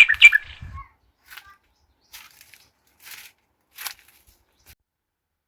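A bird's quick run of repeated chirps ends just after the start, followed by a few faint, scattered rustles about a second apart.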